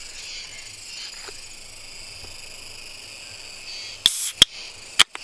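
Beer can being opened about four seconds in: a sharp crack with a short hiss of gas, a click, then another sharp snap a second later. Insects chirr steadily underneath.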